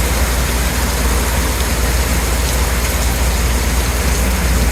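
Heavy rain pouring down steadily: an even, unbroken hiss with a constant low rumble underneath.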